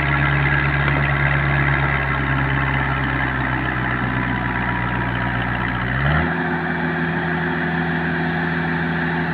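Logging truck's diesel engine pulling uphill under load at steady revs. About six seconds in, the revs step up quickly to a higher steady pitch.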